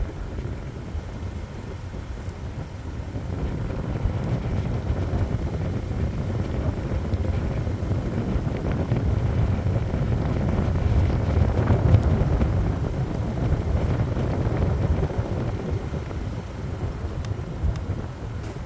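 Low rumbling vehicle noise with no distinct tones, building gradually to its loudest about twelve seconds in, then easing off.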